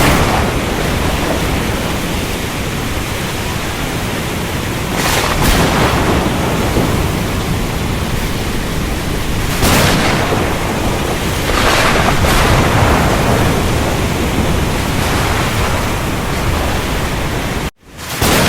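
Steady rain-and-thunder ambience: a dense, even hiss of rain with a low rumble beneath it, swelling briefly a few times. The sound cuts out for a split second near the end, then comes back.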